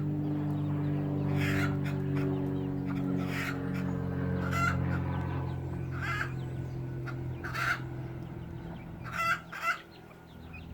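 A Silkie pullet squawking loudly about every second and a half, with a quick double call near the end: the hen's 'egg song' fuss after laying her first egg. A steady low hum sits underneath at first and fades away.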